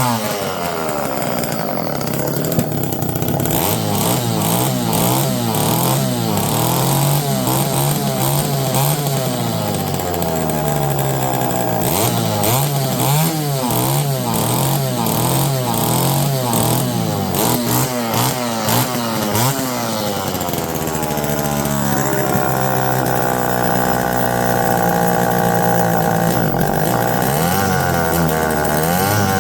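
Homelite EZ two-stroke chainsaw engine running, its throttle blipped up and down over and over, then held at a higher, steadier speed near the end. It is running without its air filter and stumbles a little at the bottom end: the low-speed carburettor mixture is iffy.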